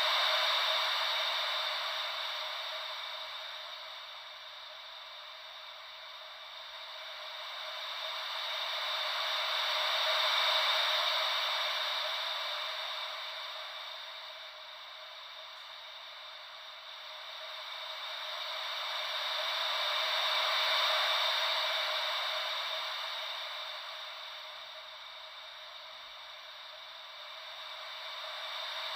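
Ocean-wave white noise: a steady hiss with no deep rumble, swelling and fading slowly about every ten seconds, three times, like waves washing in and drawing back.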